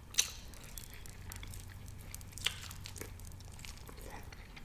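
Quiet close-up chewing, with a couple of sharp wet mouth clicks, one just after the start and another about halfway through.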